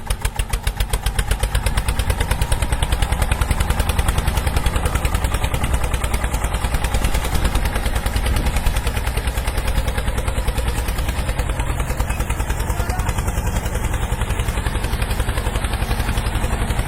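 A mini tractor's small engine running steadily, with a rapid, even pulsing beat.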